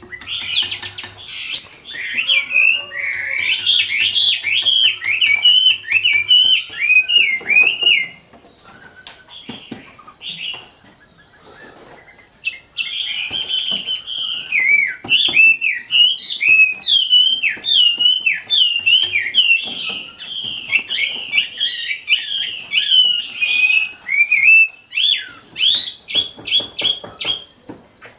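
Wambi songbird singing in full voice: rapid runs of short whistled notes that swoop down and hook up again. The song comes in two long bouts with a pause of about four seconds between them, over a steady high hiss.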